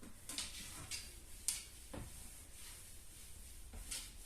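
A few light clicks and knocks as dishes and kitchen cupboards are handled, the sharpest about a second and a half and two seconds in.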